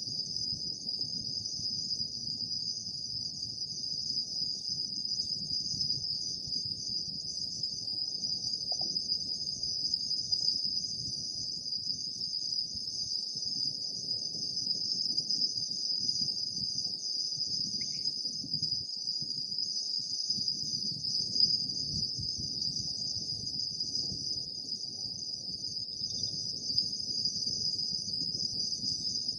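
Night chorus of autumn insects, crickets among them: a steady, high, unbroken trilling, over a faint low rumble of background noise.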